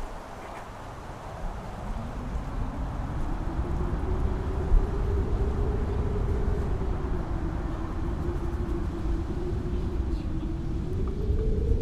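Strong mountain-top wind howling, its pitch rising about two seconds in and then wavering up and down, over a low rumble of gusts buffeting the microphone. It swells louder after the first few seconds.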